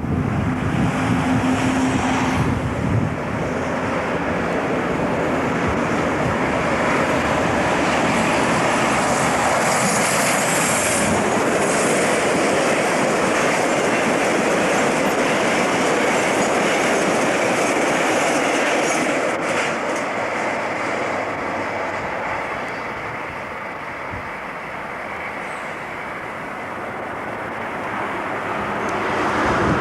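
A train running past on the railway line, a steady rail and wheel noise that eases off for a few seconds and swells again near the end.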